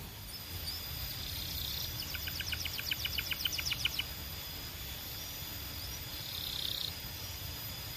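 Canary singing a quick, even trill of about nine notes a second for roughly two seconds, then a few faint single chirps, over a steady low background hum.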